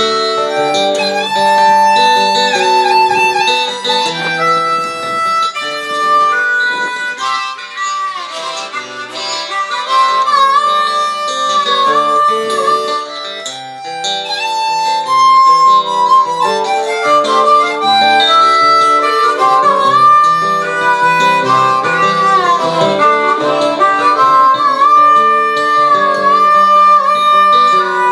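Harmonica solo with bending, sliding notes over guitar accompaniment: an instrumental break in a song.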